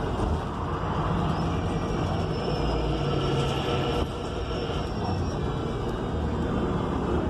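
Inside a 2019 ENC Axess BRT transit bus under way: its Cummins Westport L9N natural-gas engine and Voith automatic transmission running over steady road noise. A high thin whine rises about a second in and fades near five seconds, and the engine note eases off at about four seconds.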